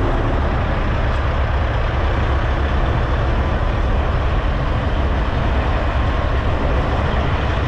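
Heavy diesel semi-truck engine running steadily close by, a deep even rumble.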